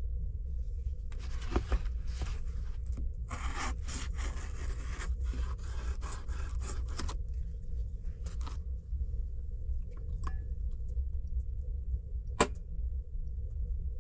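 Scraping and rustling handling noises for several seconds, then a few light clicks and one sharp knock near the end, all over a steady low rumble.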